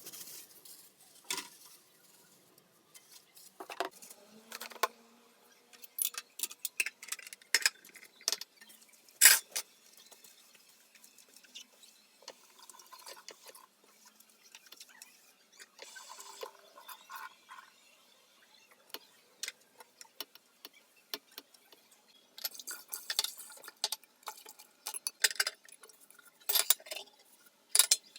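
Dishes, glasses and cutlery clinking and knocking at irregular intervals as they are handled, with a brief ring of glass or china now and then.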